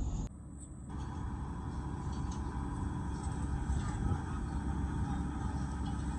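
A vehicle engine running steadily with a low rumble, starting abruptly just after the start.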